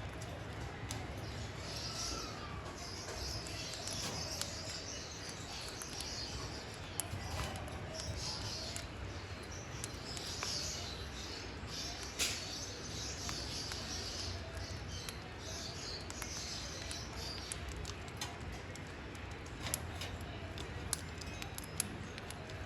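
Birds chirping in repeated short bursts of high notes, with a few sharp clicks among them.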